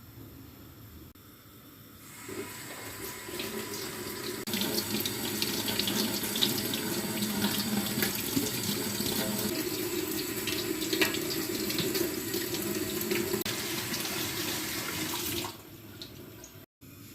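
Water running from a tap into a sink. It starts about two seconds in, grows stronger a couple of seconds later, and is shut off near the end.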